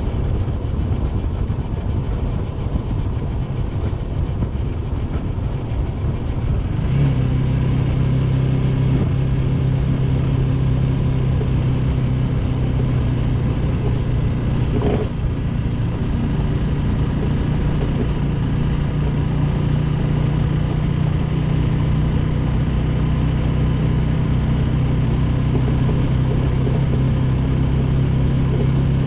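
AKT GP 180 motorcycle running on the road with wind and road rumble. About seven seconds in, a steady low engine hum comes up and holds, with a brief change in pitch around halfway.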